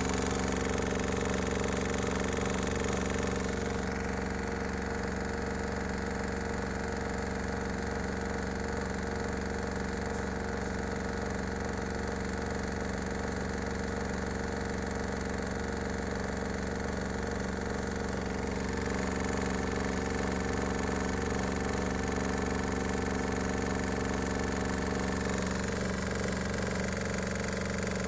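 Washing machine spin motor running with a steady hum; its tone shifts slightly twice, once a few seconds in and again past the middle.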